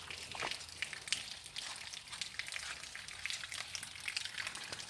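Rain falling steadily: a dense, crackling patter of many small drops.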